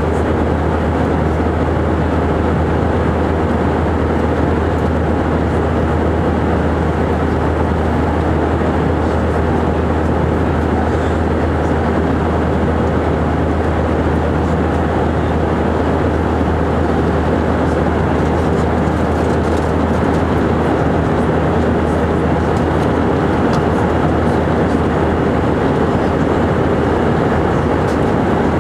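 Steady drone of an Airbus A319's jet engines and airflow heard inside the passenger cabin, a constant low hum under a wide rushing noise with no change in level.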